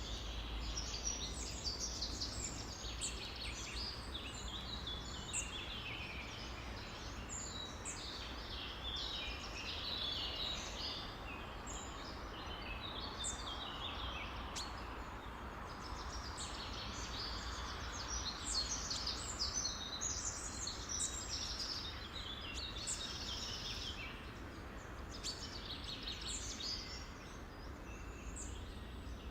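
A dense chorus of many songbirds singing and calling at once, with overlapping high chirps and trills. Beneath it is a steady background hiss and low rumble.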